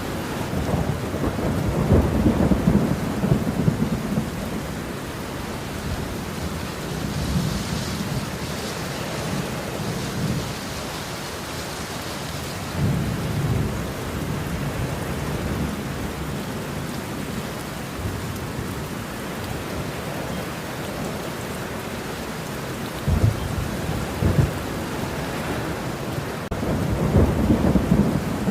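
Thunderstorm: steady heavy rain with thunder rumbling several times, loudest near the start and again near the end.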